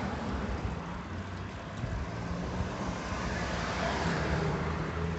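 Street traffic noise with a low engine hum, heard on a phone microphone while riding a bicycle, swelling around four seconds in as a car passes.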